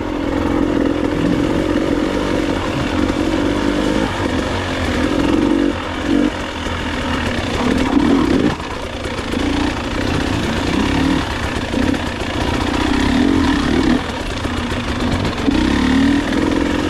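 Enduro motorcycle engine running under changing throttle, the revs surging and dropping every second or two.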